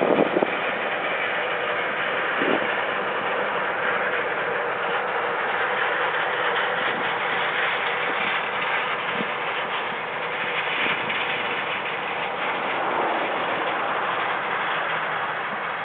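Farm harvest machinery running steadily, a constant engine and mechanical noise without changes in pitch.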